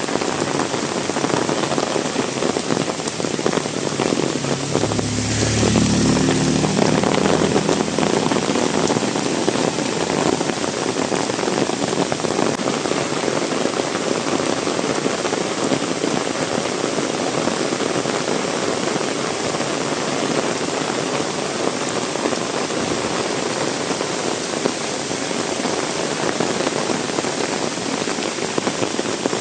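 Heavy rain falling steadily. About five seconds in, a motor vehicle's engine swells and fades over a few seconds.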